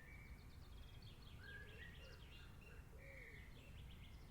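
Faint rainforest birdsong: several birds giving short held whistles and quick runs of chirps, over a low steady rumble.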